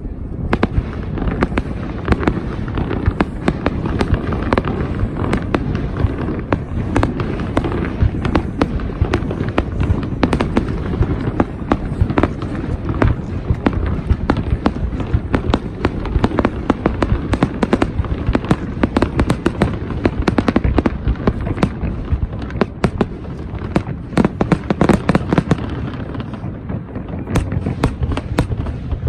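Fireworks display: a rapid, continuous barrage of sharp bangs and crackles over a steady low rumble of shell bursts.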